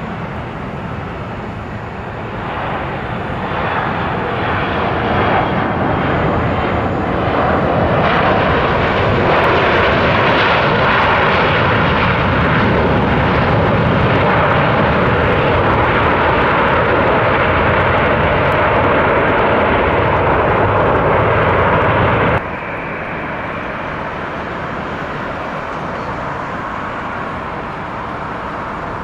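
An aircraft's engines, building over several seconds into a loud, steady roar with a faint held tone in it. About 22 seconds in the roar drops off abruptly, leaving a quieter steady rumble.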